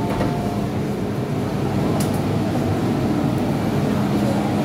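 MTR M-Train electric multiple unit running: a steady rumble and hiss, with one sharp click about two seconds in and a low steady hum coming in near the end.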